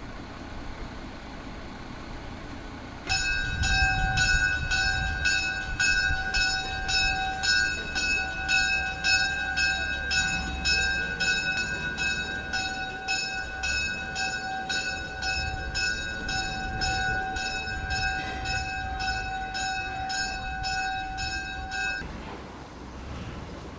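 A locomotive bell ringing steadily, about two strokes a second, over the low rumble of a train; it starts a few seconds in and stops shortly before the end.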